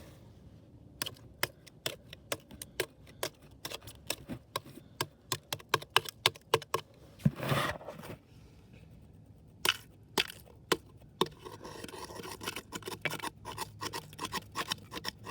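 Ice being struck and broken up: a run of sharp cracks and knocks, a couple a second, with a longer crunching burst about halfway through and steadier scraping and crunching from about three quarters of the way in.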